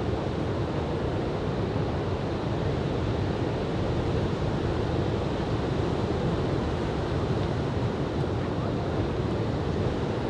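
Steady wash of surf from a head-high typhoon swell breaking on a beach, mixed with wind on the microphone.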